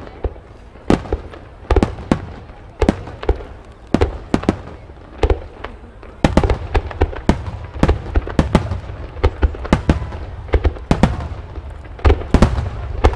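Super Vesuvius starmine fireworks barrage: rapid, irregular shell bursts, several a second, growing denser and louder about six seconds in.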